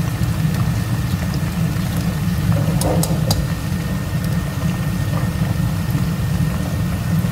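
Small battered fish frying in hot oil with a steady sizzle, under a loud, steady low rumble. A few sharp clicks come about three seconds in.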